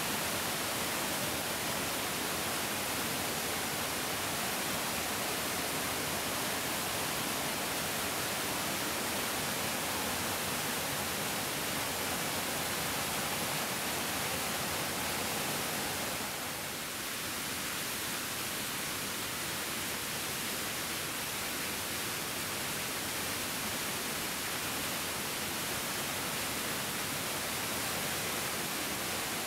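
A larger mountain stream flowing: a steady, even rush of water, dipping slightly for a moment about seventeen seconds in.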